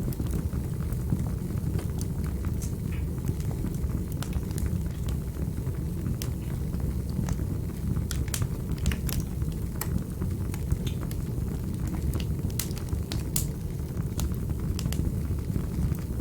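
Fire burning in a fireplace: a steady low rumble of flames with irregular sharp crackles and pops, which come thicker about halfway through.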